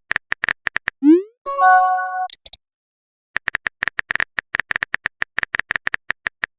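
Simulated phone keyboard typing sounds: a quick run of taps, then a rising swoosh like a message being sent and a short notification chime. After a pause, a longer run of rapid taps at about six or seven a second.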